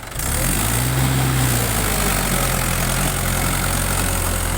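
Mahindra 475 tractor's diesel engine opening up sharply, then running hard and loud at high revs, its pitch rising slightly about a second in and then holding steady.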